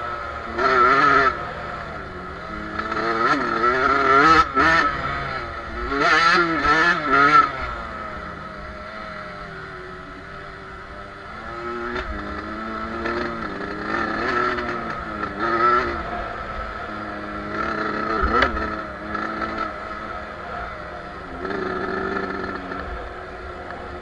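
Two-stroke motocross dirt bike engine being ridden off-road, its pitch rising and falling over and over as the throttle is opened and shut. Loud bursts come in the first several seconds, with an easier, quieter stretch around the middle.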